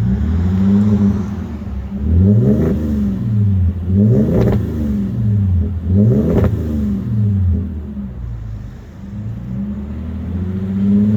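Audi A5's 3.2-litre V6 exhaust, rear mufflers deleted and replaced with straight 2.5-inch pipe to chrome tips, the engine blipped three times about two seconds apart, then dropping back toward idle and rising again near the end. A really nice tone and not too loud, the front resonator and centre muffler still in place.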